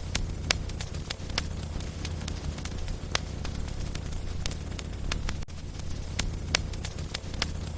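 Wood logs burning in a fireplace, crackling: irregular sharp pops and snaps over a steady low rumble, with the sharpest pops about half a second in and about a second before the end.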